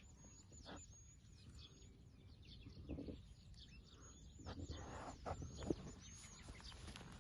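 Faint, rapid, very high-pitched chirping from small birds repeating throughout, over a low rumble of outdoor background noise, with a few soft knocks about a second in, near the middle and toward the end.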